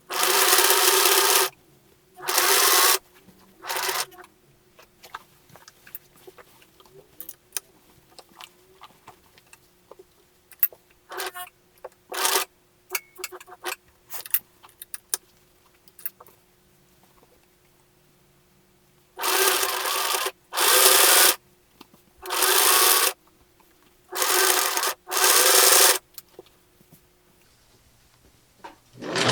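1968 Singer Model 628 Touch & Sew sewing machine stitching denim in short spurts of about a second each, three near the start and five more in the second half. Between the spurts there are pauses with small clicks and fabric-handling noises.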